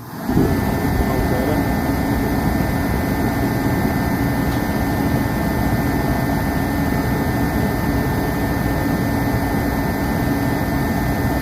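Dyna-Glo KFA80H forced-air diesel heater comes on abruptly just after the start and runs with a loud, steady rushing noise and a steady high whine. The unit has just been serviced with its filters blown out, and its pump pressure is back at spec.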